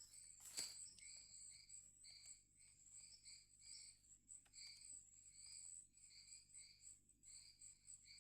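Faint chorus of forest insects: a steady high buzz with repeated chirps about twice a second. A single sharp click about half a second in.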